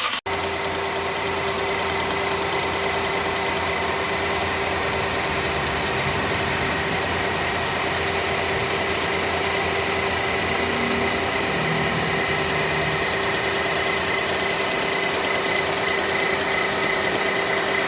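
Renault Kwid three-cylinder petrol engine idling steadily on its first run after a head gasket replacement and timing setup.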